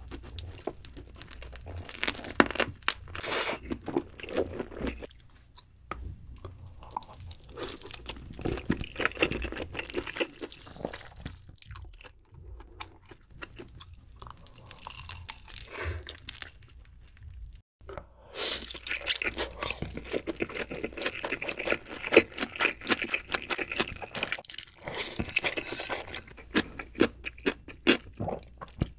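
Close-miked mukbang eating sounds: a person biting into and chewing sauced chicken and spicy noodles, with crunching, wet smacking and crackling in dense bursts. There is a brief silent break about two-thirds of the way through, and then the chewing and crunching go on.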